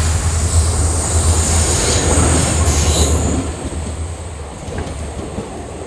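Indian Railways passenger train passing close by. A loud deep rumble drops away after about three and a half seconds, leaving the coaches rolling past with a thin high squeal of wheels on the rails.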